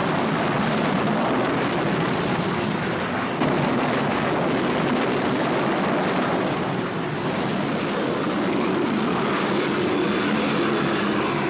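Steady loud engine roar that starts and stops abruptly.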